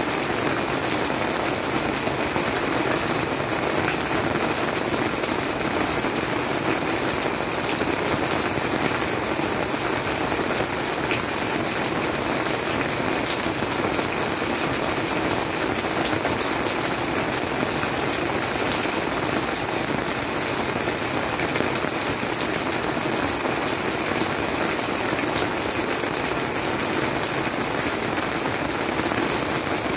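Steady summer monsoon rain falling on leafy plants: an even hiss of rain with no letup.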